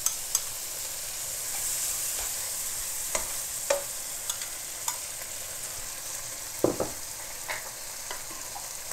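Shrimp and sliced garlic sizzling in oil in a wok as tomato sauce is spooned in and stirred, with a few scattered clicks and knocks of the spoon against the pan and jar.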